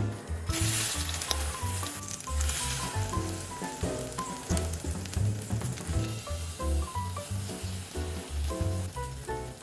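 Egg-coated tofu slabs sizzling as they fry in a hot pan; the sizzle starts about half a second in and keeps going steadily. Light background music with a bouncing bass line plays underneath.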